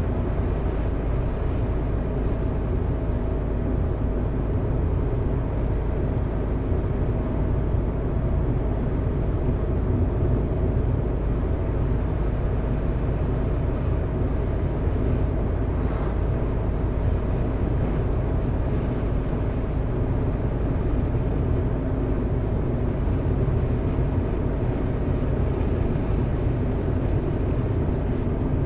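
A car driving at a steady pace: a continuous low rumble of engine and tyres on the road, unchanging throughout. One faint tick about sixteen seconds in.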